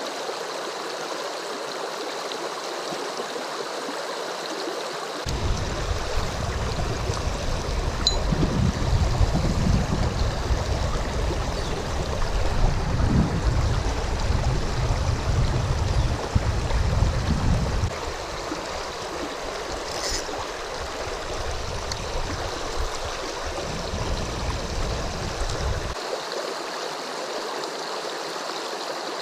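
Steady rush of shallow river water running over rapids. From about five to eighteen seconds in, a louder, uneven low rumble rides on top of it.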